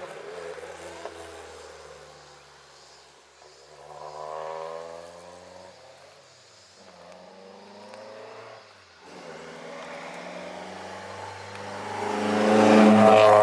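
Toyota AE86's four-cylinder engine on a mountain drive. It eases off and runs quieter for several seconds, with a short rise in revs about four seconds in. From about ten seconds in it builds revs under acceleration to a loud peak, then drops off sharply right at the end, as on a lift or gear change.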